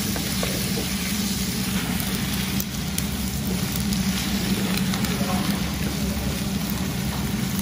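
Sliced pork and peppers sizzling steadily in a frying pan as they are stir-fried, with chopped cabbage added partway through, over a steady low hum.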